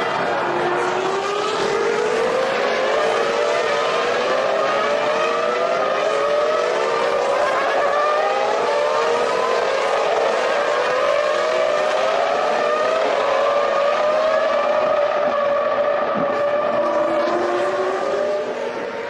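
Several 2003 Formula One cars' V10 engines at full throttle, their high engine notes overlapping and repeatedly rising in pitch then stepping down with each upshift. The sound eases off near the end.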